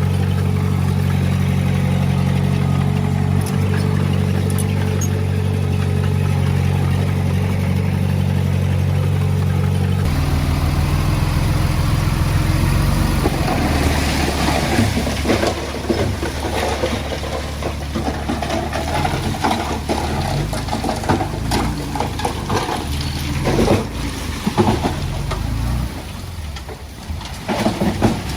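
Heavy diesel machinery engine running steadily. About ten seconds in the sound changes abruptly to a rougher engine note mixed with irregular clanking and rattling.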